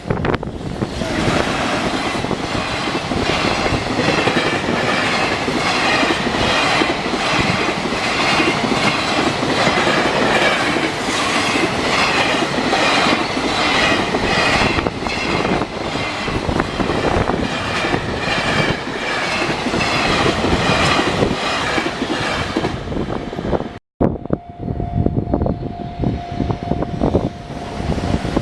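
A train passing close by on the line at a level crossing, its wheels clattering over the rail joints in a long, loud rush with a regular beat. It cuts off suddenly about 24 seconds in, and a quieter stretch follows with a steady tone lasting about three seconds.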